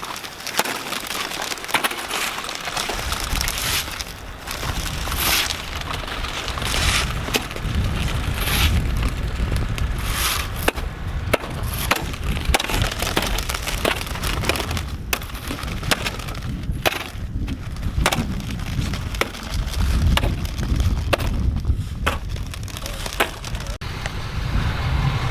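Crunching and cracking of ice on a sidewalk: many sharp cracks and clicks, over a low rumble that starts about three seconds in.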